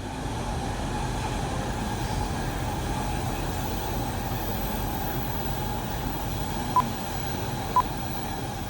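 Hokuriku Shinkansen Hakutaka train approaching: a steady rush of running noise. Three short beeps about a second apart sound near the end.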